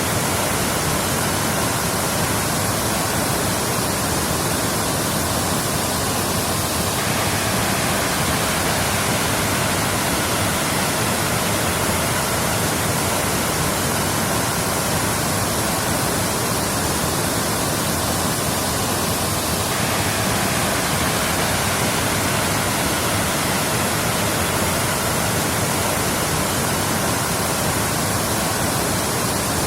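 Waterfall: water falling and rushing steadily, an even, unbroken sound.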